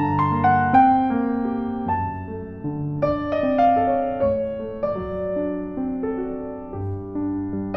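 Slow, gentle solo piano music: a melody of single notes over held low bass notes.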